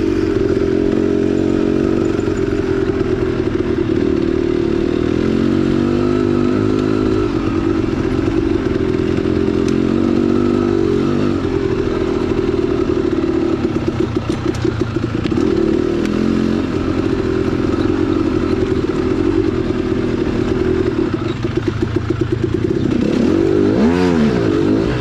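2010 KTM 300XC-W's two-stroke engine running on a trail ride, its pitch rising and falling as the throttle is worked, with a few quick blips about halfway through and again near the end.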